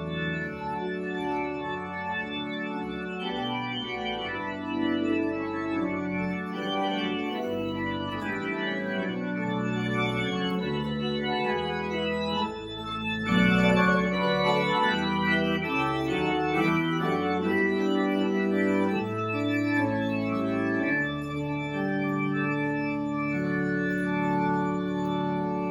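Organ playing a slow passage of held chords that change every second or two, with a brief dip about twelve seconds in before a louder chord.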